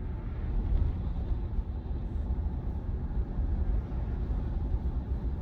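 Steady low road and tyre rumble heard from inside the cabin of a Tesla Model Y electric car driving along, with no engine sound.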